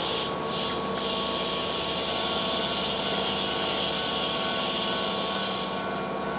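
Keihan 2600 series electric train standing at the platform with its doors open: a steady hum from its onboard equipment, with a high hiss that pulses at first, holds steady for about five seconds, then pulses again near the end.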